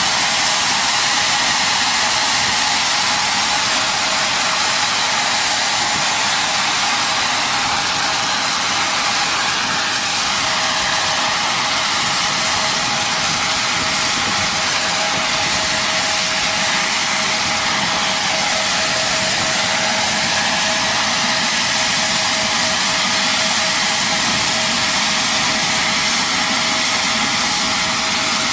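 Steady engine noise with a strong, even hiss and a constant whine, unchanging throughout.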